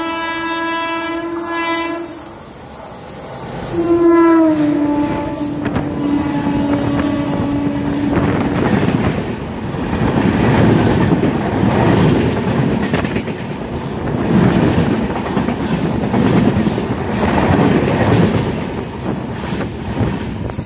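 Train horn sounding twice, the second blast long and dropping in pitch, followed by the loud rattling rumble of railway carriages running over the track.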